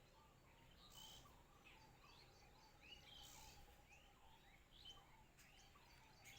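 Faint, scattered chirps and short calls from several small birds, over a low steady background hum.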